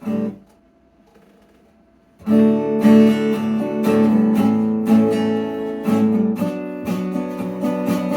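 Acoustic guitar strumming: one short chord, then about two seconds of near quiet, then steady strummed chords begin as the song's intro.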